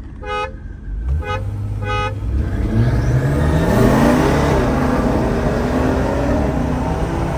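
Car horn beeping three times as a start signal, then a tuned BMW's turbocharged engine going to full throttle, its pitch climbing and dropping back at gear shifts as the car accelerates hard.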